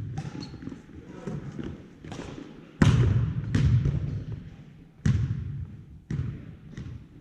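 Volleyball being struck and bouncing on a hard floor: a string of sharp smacks and thuds, about seven in all, the loudest about three and five seconds in.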